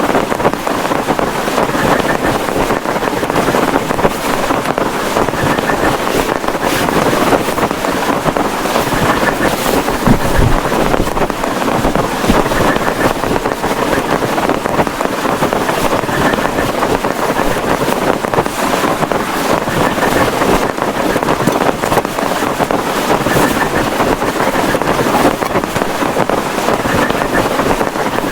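Heavy rain pouring down: a dense, steady rush full of drop impacts, with one heavier knock about ten seconds in.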